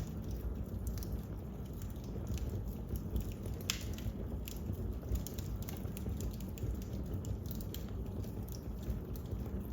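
Wood fire crackling in a fireplace: a steady low rumble of burning with scattered sharp pops and snaps, one louder pop a little over three and a half seconds in.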